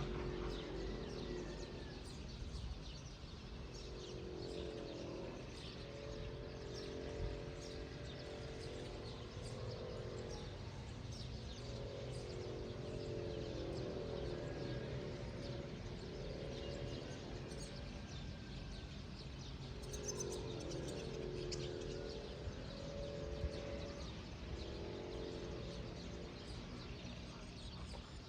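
Birds chirping and calling over a steady outdoor background hum, with a lower, pitched call that comes and goes every few seconds.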